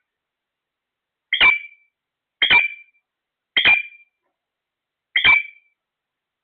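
A parrot calling four times, short sharp calls about a second apart, each alike and ending in a brief held note.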